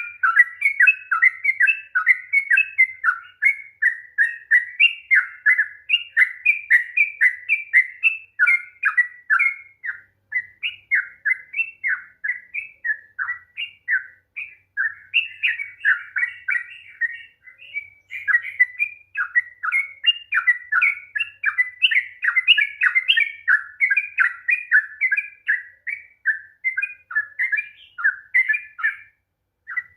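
Yellow-vented bulbul (trucukan) singing a long, unbroken run of quick chirping notes, several a second, breaking off briefly near the end.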